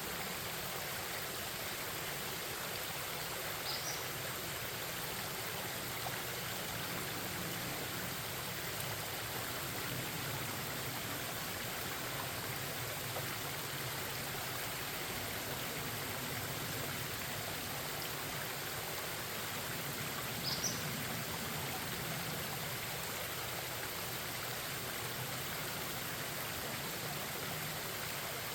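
Forest stream babbling in a steady rush of running water. A bird gives a brief high chirp twice, a few seconds in and again past the middle.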